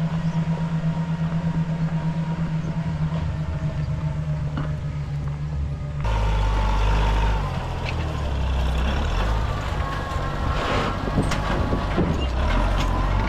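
Tractor engine running steadily. About halfway through, the sound cuts abruptly to a louder, deeper engine with rattling and clatter over it.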